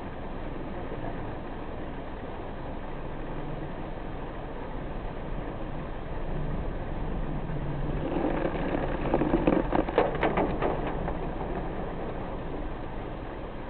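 Car driving in steady rain: a constant rush of rain and road noise over a low engine hum. A louder stretch with a quick run of sharp ticks comes about eight to eleven seconds in.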